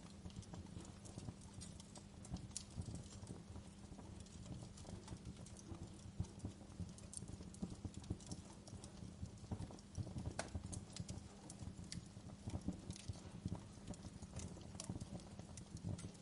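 Wood fire crackling in a fireplace: frequent irregular pops and snaps over a low, steady rumble.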